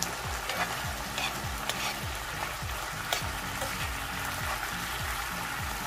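Squid stir-fry sizzling in a saucy pan while a metal spoon stirs it, with occasional clicks and scrapes of the spoon on the pan. A low repeating beat runs underneath.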